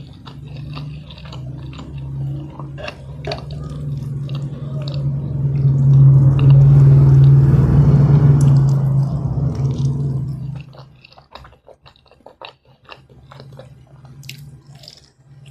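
Close-miked mouth-closed chewing of instant noodles and fried egg, with soft wet clicks and smacks. For most of the first ten seconds a loud, steady low hum rides under the chewing, swelling towards the middle and cutting off suddenly; after that only the quieter chewing clicks remain.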